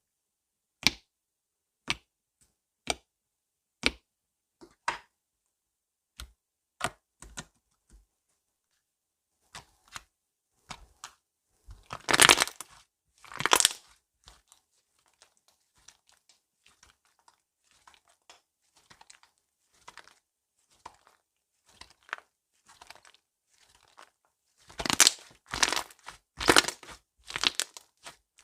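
Slime being handled by hand: sharp pops about once a second, then scattered faint crackling, with two louder squishing, crackling presses about twelve seconds in and a run of four more near the end.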